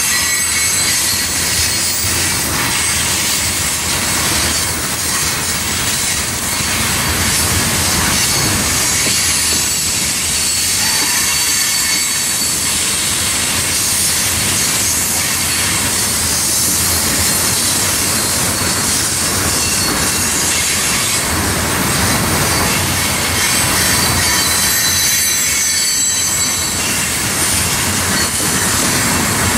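Freight train tank cars rolling past close by: a steady rumble and clatter of steel wheels on the rails, with faint high wheel squeals coming and going.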